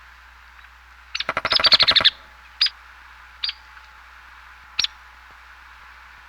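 A bird chirping: a quick run of about ten high, downward-sweeping chirps about a second in, then three single chirps spaced a second or so apart, over a steady hiss.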